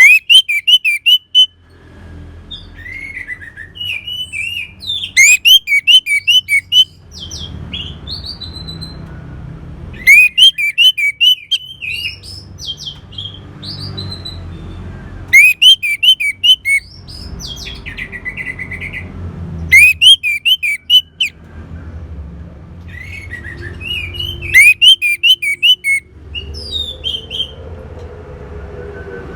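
Orange-headed thrush song: bursts of rapid, sharp, high chirped phrases, each a second or two long, repeated about every five seconds. A low rumbling noise fills the gaps between phrases.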